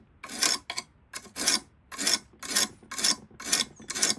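A steel nail scratching a cut line into a piece of natural stone, drawn back and forth in short rasping strokes about two a second, scoring the mark for cutting.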